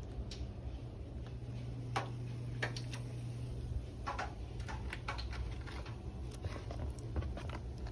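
Batter-coated Oreos frying in hot oil: faint, scattered crackles and pops over a low steady hum.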